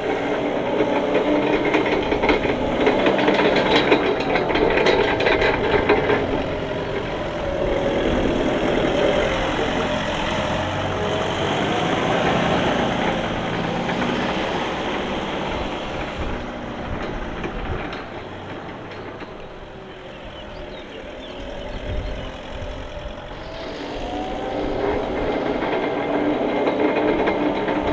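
Linde H40D diesel forklift running, its Volkswagen diesel engine and drive together with a whine that rises and falls in pitch several times as the machine works. The sound eases off about two-thirds of the way through, then builds again near the end.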